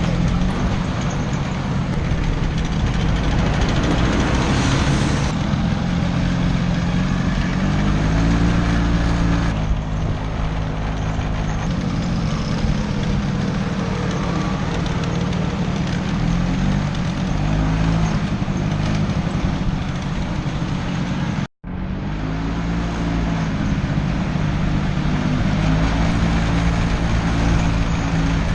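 Vespa scooter engine running under way, its pitch stepping up and down with the throttle, under heavy wind and road noise. The sound cuts out abruptly for a split second a little past two-thirds through.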